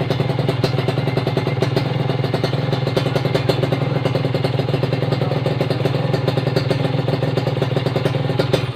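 Kawasaki Ninja RR's single-cylinder two-stroke engine running steadily at idle through an aftermarket racing exhaust, freshly repacked with new glasswool, with a rapid even firing beat. It cuts off near the end.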